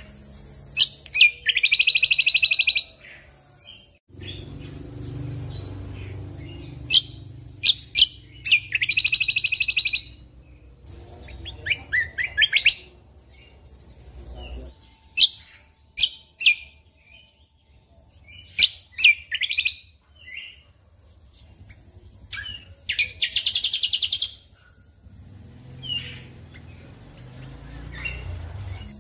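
Cucak kombo (kecial kombok) songbird singing in bursts of sharp chirps, with three longer, fast, rattling trills: about a second in, around the middle of the first half, and near the end.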